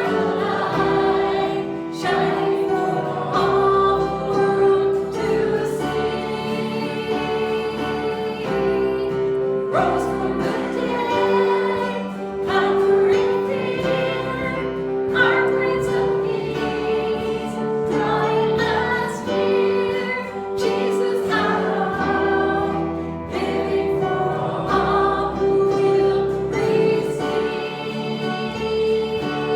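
A group of voices singing a worship song together with instrumental accompaniment, in long held notes.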